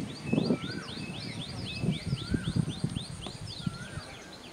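Birds calling: a fast run of short, downward-sweeping high chirps, several a second, with a lower rising-and-falling whistle three times.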